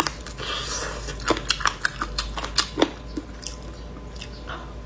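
Close-up mouth sounds of biting and chewing sauce-glazed chicken pieces on the bone: wet chewing with several sharp clicks and crunches scattered through.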